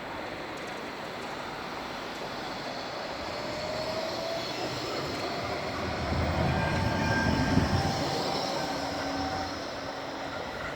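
Bombardier Flexity 2 tram passing on the rails, growing louder to a peak about six to eight seconds in with a low rumble, then fading. A few thin, faint squealing tones from the wheels ride over the running noise.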